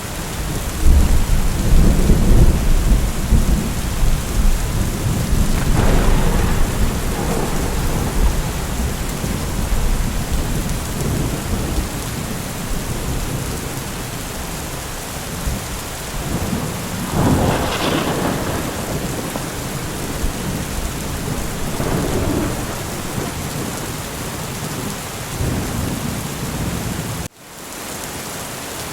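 Steady heavy rain with rolling thunder: a long low rumble over the first several seconds, and louder peals about a quarter of the way in and past the middle. Near the end the sound cuts out abruptly for an instant, then the rain continues more lightly without the rumble.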